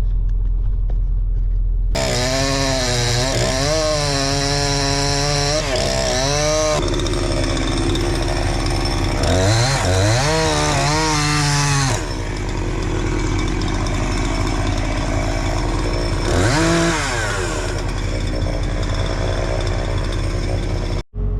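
Chainsaw cutting a stump low to the ground, its engine pitch sagging and rising again and again as it loads up in the wood and revs free. A steady low hum runs underneath, and the sound cuts out briefly near the end.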